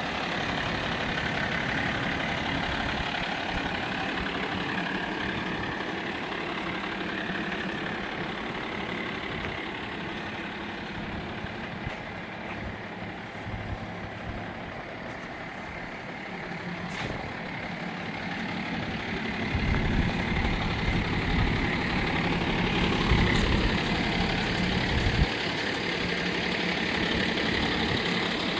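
A 2013 Freightliner bucket truck's 6.7 Cummins inline-six diesel engine running steadily. About twenty seconds in, its low rumble grows louder for about five seconds, then drops back suddenly.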